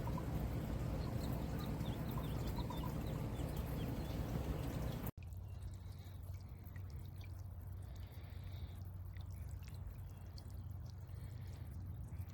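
Water splashing and dripping in a copper bird bath, with a few short bird chirps in the first few seconds. About five seconds in the sound cuts off and goes on quieter.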